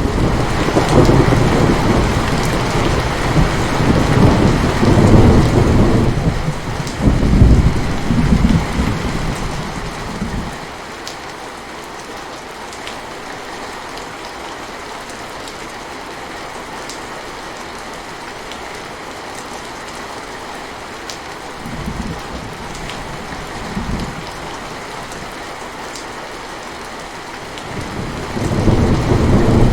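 Steady rain, with a long low thunder rumble through roughly the first ten seconds, two short rumbles a little past the middle, and another building near the end.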